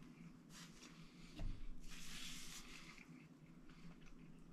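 Quiet eating sounds of a crispy, sauce-coated fried chicken wing being bitten and chewed. There is a soft thump about a second and a half in and a short crunchy crackle just after it, over a faint steady hum.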